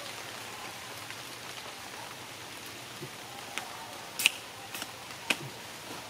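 Rain pattering steadily on forest foliage, with a few sharp taps, the loudest about four seconds in and another just after five.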